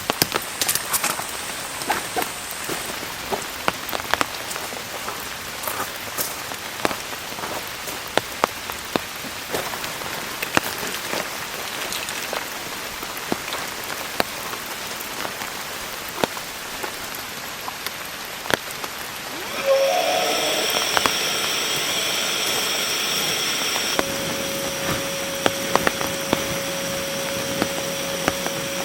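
Heavy rain falling steadily on a surface, with many sharp individual drop hits. About two-thirds of the way through, a small electric motor starts running with a steady whine that lasts to the end, a few seconds later settling into one steady tone.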